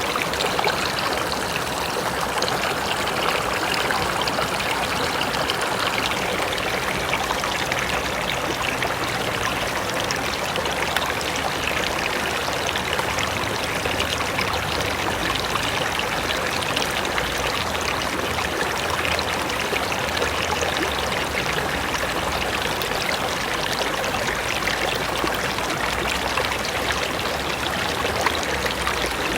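Mountain river flowing over rocks: a steady rushing of water with small splashing and trickling.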